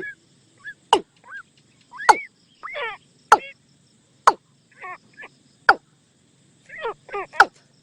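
Watercock decoy call: sharp, loud knocking notes at irregular intervals of about a second, mixed with short warbling, gurgling notes that bend up and down in pitch.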